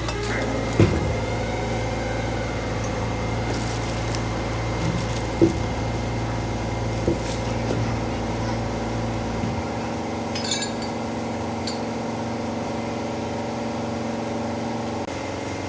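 A wheel loader's engine running steadily, with a few sharp metallic clinks over it; the deepest part of the hum drops away about nine and a half seconds in.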